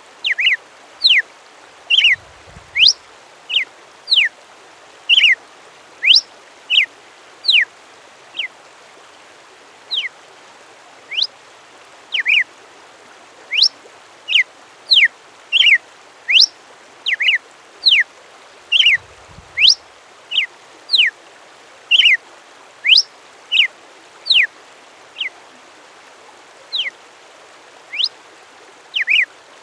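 A bird repeating short, sharp whistled notes that sweep quickly in pitch, spaced irregularly about once a second, over a steady background hiss.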